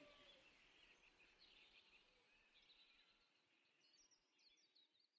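Near silence: faint bird chirps over a low background hiss, fading away.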